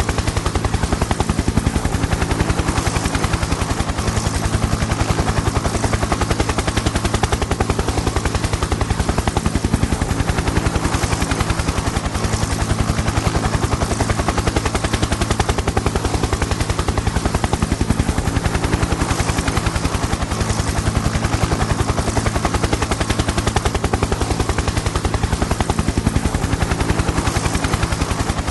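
Helicopter in flight: the rapid, even chop of the rotor blades over a steady engine drone, unchanging throughout.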